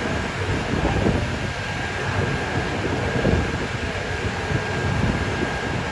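Strong gusting wind buffeting the microphone over a steady street rumble, with a faint steady high tone throughout.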